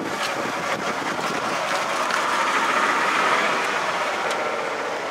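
1991 Ford F-150's 4.9-litre inline six idling after a cold start, the idle swelling up around the middle and settling back down. It is a rough idle that the owner thinks needs a new idle air control motor.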